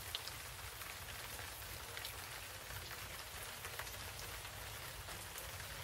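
Steady rain, with scattered louder drops.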